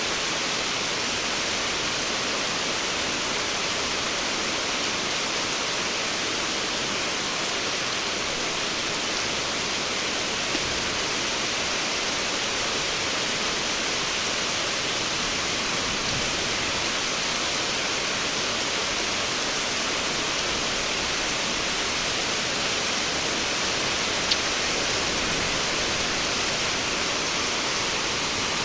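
Rain falling steadily, an even hiss, with one sharp click near the end.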